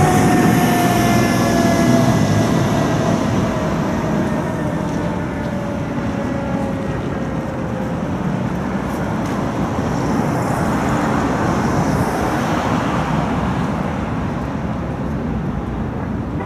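Federal Signal Q mechanical siren on a fire engine winding down, its pitch sliding slowly lower and fading over about eight seconds as the rotor coasts to a stop. A steady heavy rumble of vehicles and traffic runs under it and carries on after it.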